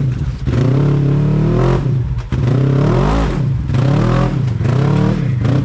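Polaris RZR side-by-side's engine revving up and falling back several times under load as the machine crawls up a rock.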